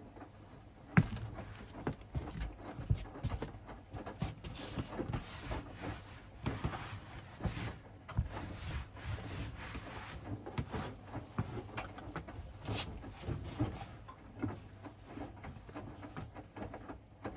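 Hoover DXOA610AHFN-80 front-loading washing machine in its wash phase, the drum turning bed linen with irregular knocks and clicks over a steady low hum. A sharp knock about a second in is the loudest sound.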